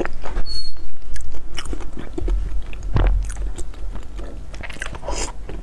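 Close-miked chewing of sticky glutinous rice balls (tangyuan) in chocolate sauce: a run of short, wet mouth clicks and smacks, with a stronger one about three seconds in.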